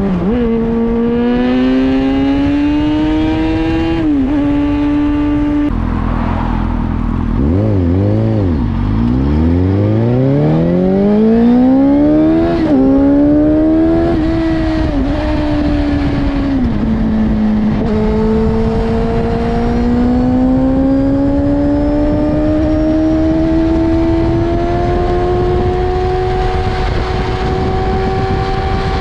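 Inline-four sport motorcycle engine being ridden through the gears. The revs climb and drop sharply at several gear changes and fall low a few seconds in before pulling back up. Through the second half the revs rise in one long, steady climb.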